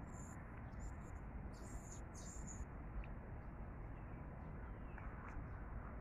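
Small birds chirping in short, high notes, several in the first half, over a steady low background rumble.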